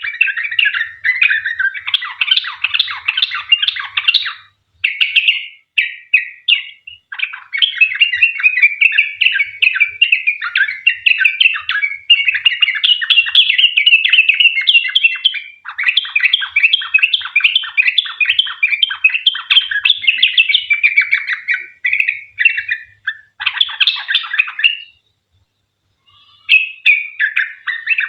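Yellow-vented bulbul (trucukan) in full song, a long run of rapid chattering notes with brief breaks about five seconds in and a longer pause near the end.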